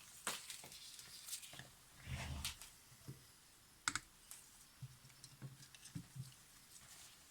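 Light, irregular clicks and taps of multimeter probes and small camera parts being handled and touched together, with a duller knock about two seconds in.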